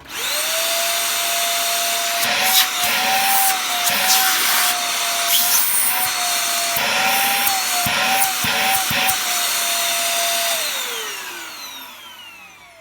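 Dyson DC50 upright vacuum cleaner, bin removed, switched on: its motor whine rises quickly to a steady high pitch that wavers several times with a few knocks while the suction is checked. About ten seconds in it is switched off and the whine runs down, falling in pitch.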